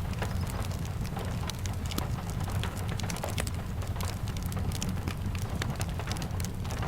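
Steady rain mixed with a wood fire crackling in a fireplace: many quick, sharp pops and ticks over a steady low rumble.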